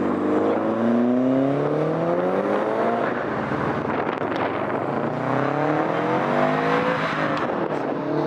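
Car engine revving hard twice, its pitch climbing over two or three seconds each time before dropping away, with a rushing noise underneath.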